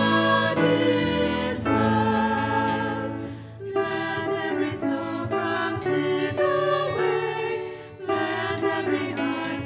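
Several voices singing a hymn together with piano accompaniment, in slow held notes.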